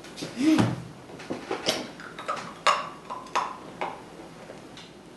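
A short low vocal sound from a person, then a series of sharp, irregular clicks and taps from handling objects.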